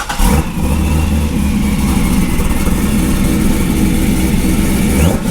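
Supercharged C6 Corvette V8 running at a steady idle, freshly started.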